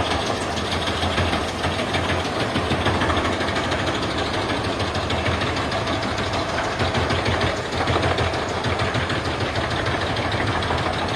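Wood chipper running steadily, its engine under load as the blades shred logs into chips, a dense continuous rattling noise over a low engine rumble.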